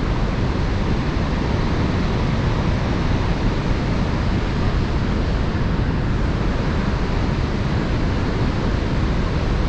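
Steady, unbroken roar of rushing water from Niagara Falls, heaviest in the low end.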